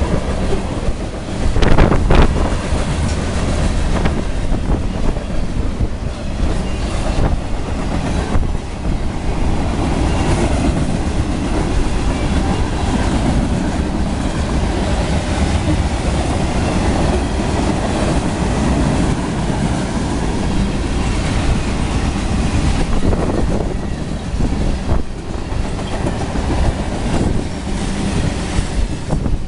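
A train rolling steadily past close by, its wheels rumbling on the rails with a clickety-clack over the rail joints. A loud burst comes about two seconds in.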